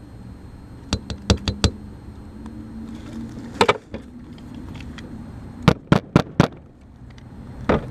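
Sharp clicks and knocks of hands and tools working at an air conditioner's capacitor: four about a second in, a short cluster midway, four quick ones near six seconds and one near the end, over a steady low hum.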